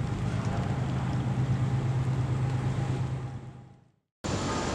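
Rain falling on flowers and foliage, a steady hiss over a low, steady hum. It fades out about three and a half seconds in, then after a short silence a new outdoor ambience cuts in near the end.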